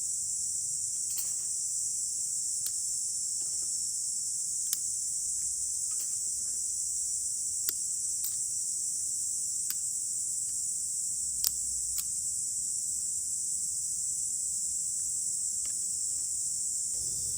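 Steady high-pitched chorus of insects, with sharp pops from a crackling wood campfire every second or two.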